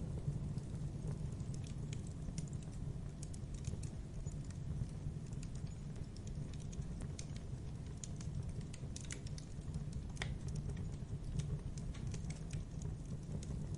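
Wood fire in a fireplace crackling, with irregular small pops and snaps over a steady low rumble of burning flames; a few sharper pops come about nine to ten seconds in.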